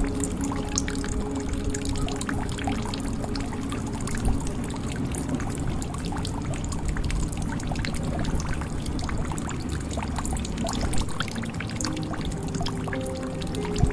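Water pouring and trickling into a jug: a steady rush of water dotted with many small drips and splashes.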